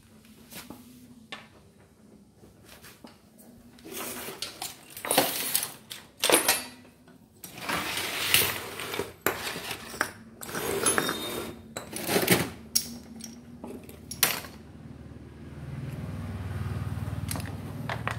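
Metal tool parts and hand tools being handled and knocked together on a workbench: irregular clinks, clicks and scraping rattles, busiest in the middle. A low steady hum starts near the end.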